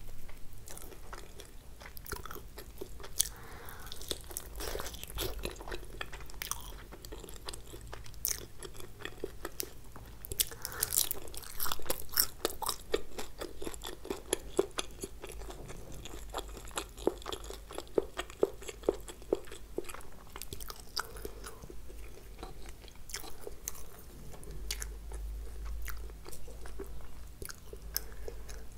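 A person chewing food right at the microphone: a steady run of wet mouth clicks and crunchy crackles, busiest about a third of the way in and again past the middle.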